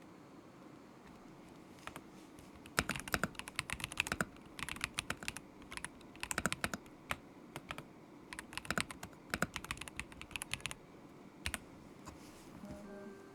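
Typing on a KZZI K75 Pro mechanical keyboard with Moment linear switches: quick runs of key clicks in bursts with short pauses, starting about two seconds in and tailing off with a lone keystroke near the end.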